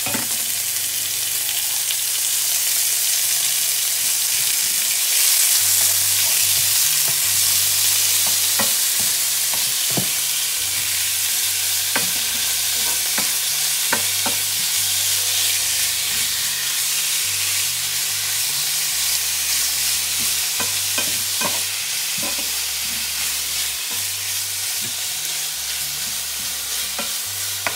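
Chicken strips and chopped garlic sizzling in hot oil in a non-stick frying pan, turned and stirred with a wooden spatula, with scattered taps and scrapes of the spatula on the pan. The cold chicken is browning as it fries.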